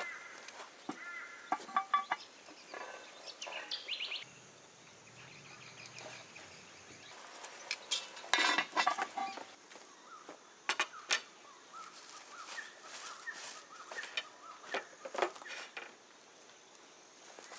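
Birds calling in short, repeated calls, mixed with scattered sharp clicks and knocks, the loudest cluster about halfway through.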